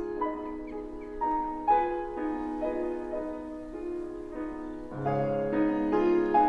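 Solo piano playing a slow classical melody in held notes.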